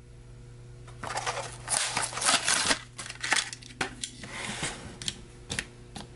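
Carded diecast toy car in its plastic blister pack being handled, with crinkling and sharp clicks of plastic and card in a string of short, irregular bursts.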